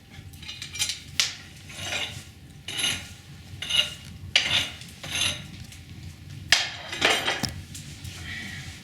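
Metal fireplace tools clinking and scraping against the grate and firebox as the fire is poked and a cardboard box is worked into it. There are about ten irregular clanks, roughly one a second.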